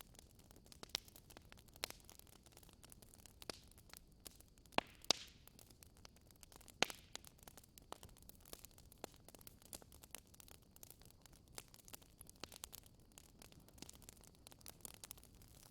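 Fireplace fire crackling: scattered, irregular pops over a faint steady hiss, with a few louder pops around the middle.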